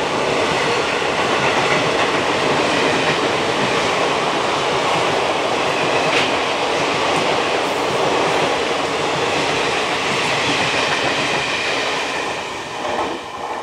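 Passenger train passing close by: a steady, loud rush of coaches and wheels on the rails that dies away near the end.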